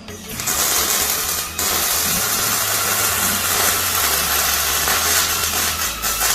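A loud, steady grinding hiss from a hand-held power grinder or sander working on metal, stopping briefly about a second and a half in and ending just before the close.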